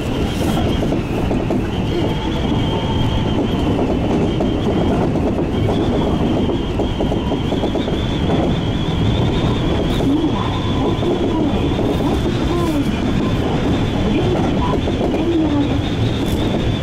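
Seibu 2000 series electric train running at speed as heard from inside the front car, wheels rumbling and clattering over the rails with a steady high-pitched whine.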